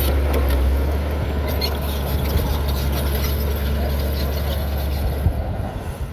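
Heavy earthmoving machinery's diesel engine running steadily with a deep, even rumble.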